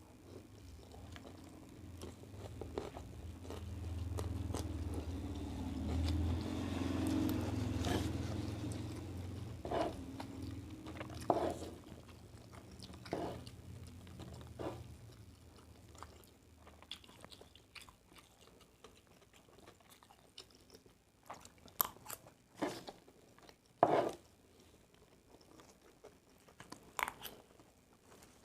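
Close-miked chewing and crunching while eating fried rice, with short clicks scattered through, the sharpest a little after two-thirds of the way in. A low rumble builds and fades over the first twelve seconds or so.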